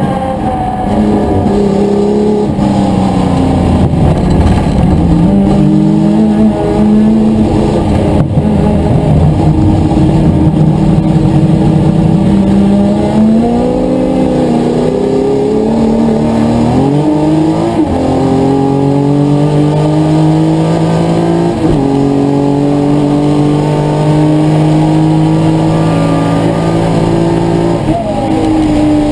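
Historic touring car's engine at racing speed, revving up and dropping in pitch at gear changes, then holding a steady pitch for several seconds.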